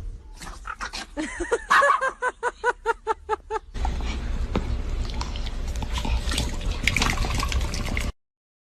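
An animal gives a quick run of short pitched calls, about four a second. After that comes a few seconds of noise with scattered clicks, which cuts off suddenly near the end.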